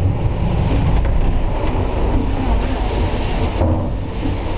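Lynton cliff railway car running on its rails, a steady low rumble.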